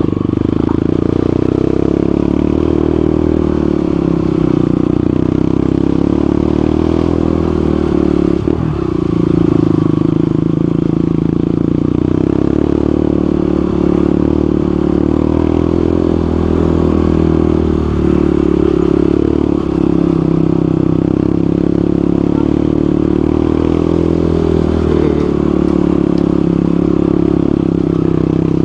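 Motorcycle engine running during a ride, its pitch wavering slightly with the throttle, with a brief dip in the engine note about a third of the way through.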